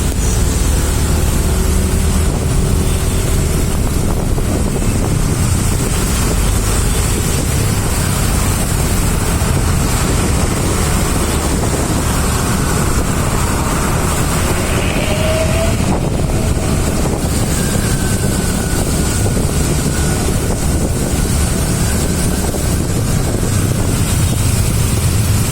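Steady rumble of congested road traffic, engines and tyres, with wind buffeting the microphone.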